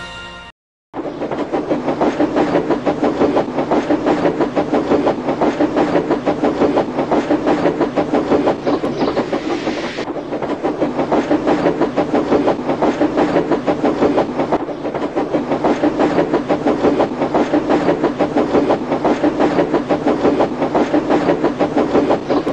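A train running along the track with a steady, fast, rhythmic clatter. It starts about a second in, after a brief silence, and the higher hiss in it fades about ten seconds in.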